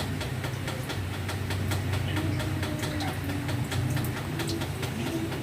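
Heavy rain, many drops tapping irregularly on a hard surface, over a steady low rumble.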